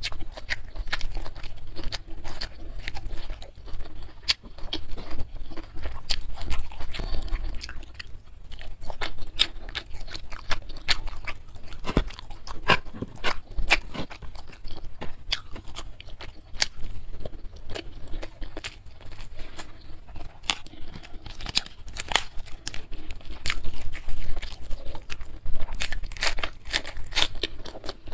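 Close-miked eating: a hand-fed mouthful of rice and chilli beef chewed, with dense, irregular wet mouth clicks and crunches.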